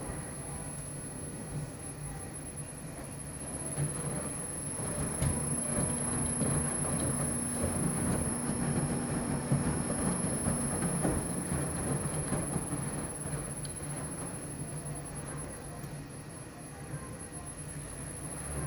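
Extra-large commercial front-load washing machine running, its drum tumbling a load of bedding with a steady rumble and low motor hum, growing louder through the middle.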